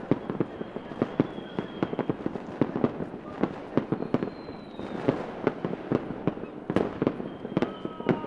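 Fireworks going off in a dense, irregular barrage of bangs and pops, several a second, with a few whistling tones that fall slightly in pitch, including one near the end.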